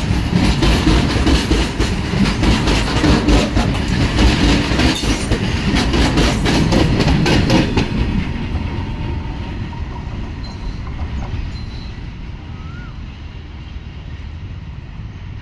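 Freight train passing close by: its steel wagon wheels clatter over the rail joints with rapid sharp clicks over a heavy rumble. The last wagon goes by about halfway through, and the sound then fades steadily as the train runs away down the line.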